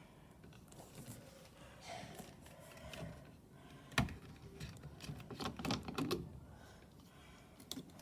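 Light clicks and taps from a washing machine being handled, with one sharp click about halfway through and a quick run of lighter clicks a second or two later.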